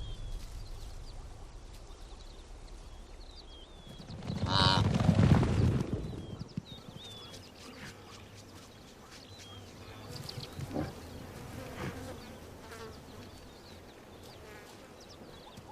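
Savanna field ambience with insects buzzing and small chirps throughout. About four seconds in, one loud pitched animal call with a low rumble lasts about two seconds, and two shorter calls follow near the end.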